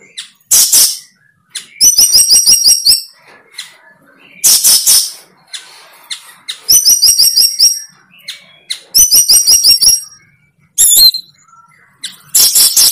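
A bird calling loudly and repeatedly, with harsh squawks alternating with rapid high trills of quick notes.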